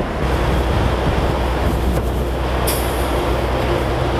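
Steady low rumble of a large diesel vehicle's engine running, with a brief hiss about two and a half seconds in.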